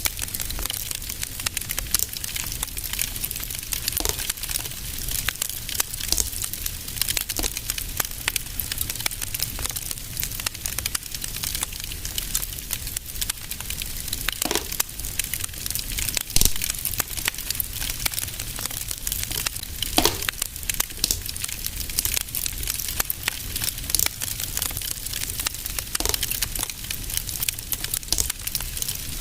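Fireplace fire crackling steadily with dense small snaps, a few louder pops near the middle, over a low steady rumble.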